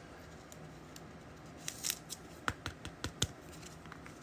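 A handful of light, sharp clicks and snips from handling trading cards and their packaging, clustered in the middle, over quiet room tone.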